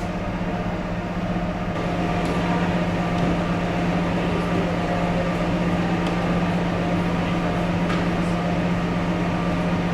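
Steady machine hum with a strong low drone and a couple of fainter higher tones over a noisy rumble, unchanging throughout.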